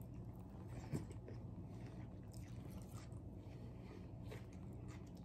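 Faint chewing and mouth sounds of people eating burgers, with scattered small wet clicks and smacks, one a little louder about a second in, over a faint steady low hum.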